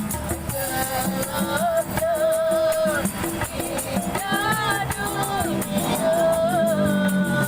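A street singer holding long, wavering notes, with a shaker rattling a steady beat behind the song.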